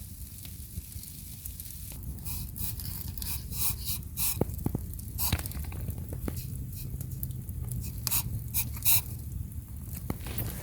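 Steady low rumble of wind with scattered sharp crackles and clicks, thickest from about two seconds in to near the end.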